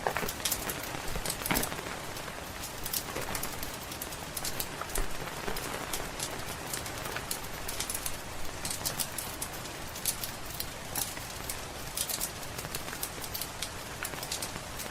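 Steady rain with a wood fire crackling, many small sharp pops scattered irregularly over the constant hiss of the rain.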